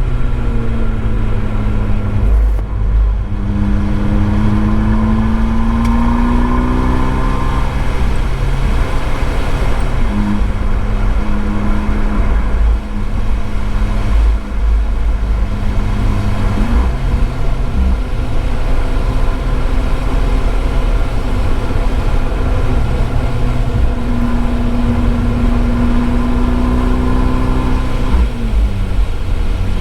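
Abarth 595C Esseesse's turbocharged four-cylinder running hard through an Akrapovič exhaust, heard from the rear of the car. The engine note climbs twice with acceleration and changes abruptly between the climbs, as at gear changes or lifting off.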